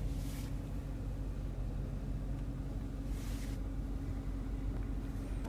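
The Challenger R/T's 5.7-litre Hemi V8 idles, a steady low hum heard from inside the cabin. Two brief soft hisses come about half a second and three seconds in.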